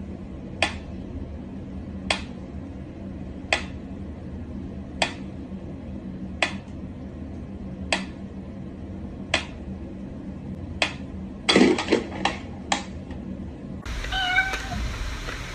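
A cat giving short, repeated mews about every second and a half over a steady low hum, then several quick mews in a row near the end. Near the end the sound changes to longer, wavering calls.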